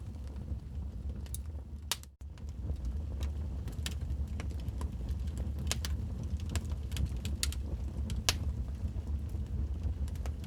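Wood fire crackling in a fireplace: irregular sharp pops and snaps over a steady low rumble of the burning fire. The sound cuts out for an instant about two seconds in.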